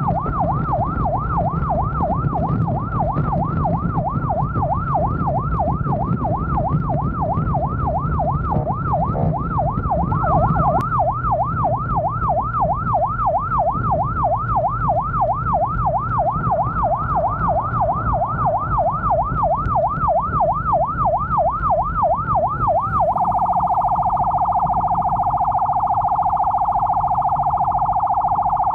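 Electronic emergency siren on yelp, sweeping up and down about three times a second over engine and road rumble. About 23 seconds in it switches to a much faster, narrower trill.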